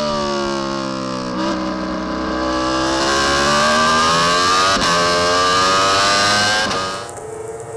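Racing superbike engine heard from on the bike: the revs fall as it slows, then climb steadily under acceleration with a quick gear change about five seconds in, before the sound drops away near the end.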